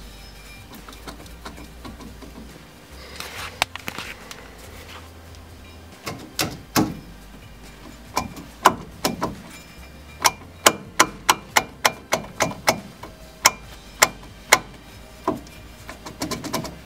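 A series of sharp metallic knocks and clanks from work on the truck's front wheel hub, irregular at first, then in quick runs of about three a second, over faint background music.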